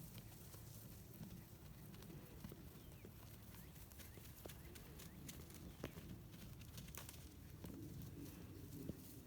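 Faint, irregular hoof clicks and thuds of miniature donkeys moving about, over a low steady rumble. The sharpest clicks come about six seconds in and just before the end.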